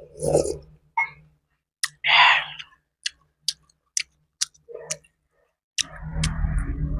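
Close-miked eating sounds while eating phở: sharp wet mouth clicks of chewing, about two a second, broken by a few short noisy bursts, with a denser, louder stretch starting about six seconds in.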